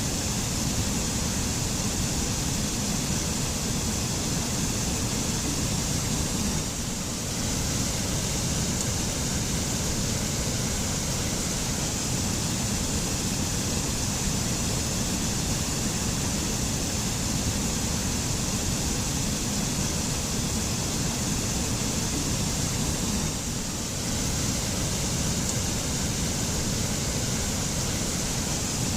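Forest mountain waterfall: water falling and rushing in a steady, unbroken noise, dipping slightly twice.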